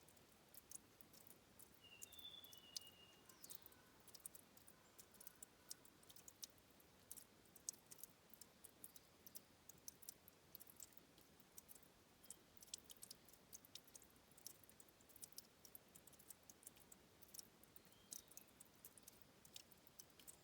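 Faint, irregular ticking and plinking of water trickling and dripping at a stream's spring source, several small drops a second. A short falling bird chirp sounds about two seconds in.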